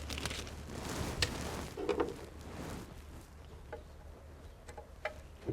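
A few sharp clicks and taps of a screwdriver and small metal parts being handled during disassembly, over a steady hiss that dies down after about three seconds.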